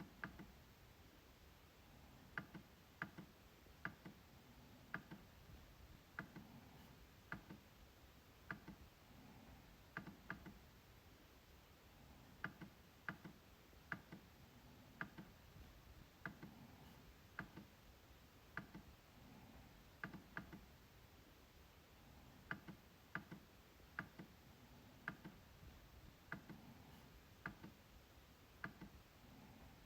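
MacBook trackpad being clicked over and over at an uneven pace, about one to two sharp clicks a second, some in quick pairs like double-clicks.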